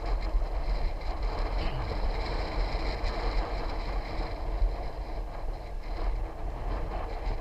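Steady wind rush on the microphone over road and tyre noise from a bicycle being ridden.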